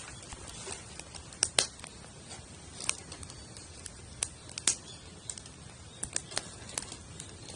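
Wood campfire laid teepee-style, crackling with irregular sharp pops and snaps over a low steady hiss.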